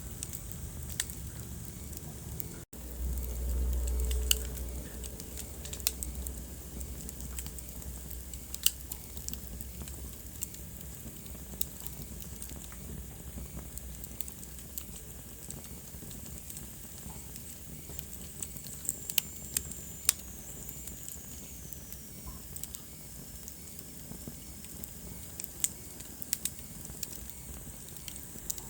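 Wood fire crackling in a fireplace: irregular sharp pops and snaps over a low steady rush of the flames. The sound cuts out for an instant about three seconds in and comes back with a low rumble for a couple of seconds. A thin high whistle slowly falls in pitch about two-thirds of the way through.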